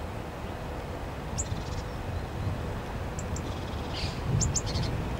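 A small bird calling several times, each call two sharp high notes followed by a quick stuttering trill, over a steady low rumble.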